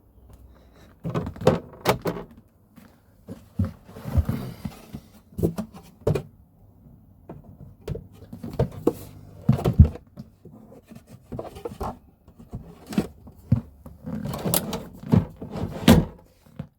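Irregular knocks, clicks and clunks of hands, tools and parts being handled while wiring a breaker panel, with sharper thumps about ten seconds in and near the end.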